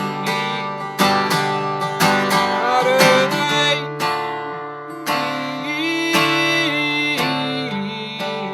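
Acoustic guitar strummed in a steady rhythm, about one strum a second, in a live folk song, with a voice singing a short line over it.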